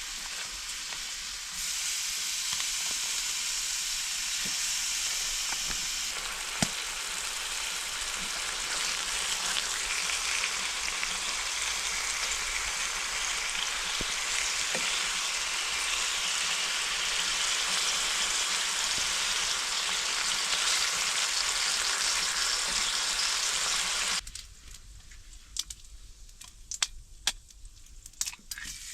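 Food frying in a pan, a steady sizzling hiss with small pops. About four seconds before the end it cuts off abruptly to a much quieter background with scattered sharp clicks and crackles.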